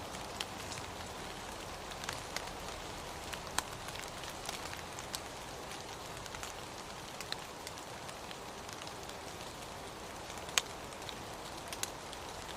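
Steady rain with scattered sharp drops ticking irregularly, one louder drop about ten seconds in.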